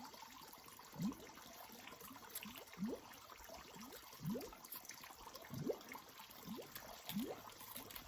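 Water gurgling and plopping: short low plops that rise in pitch, about one or two a second, over a faint hiss.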